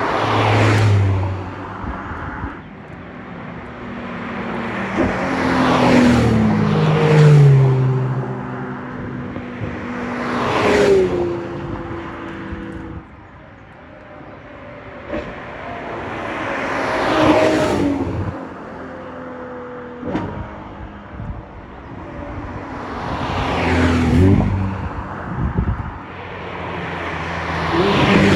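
Ferrari sports cars driving past one after another, several in the stretch, each swelling up and fading with its engine note dropping in pitch as it goes by.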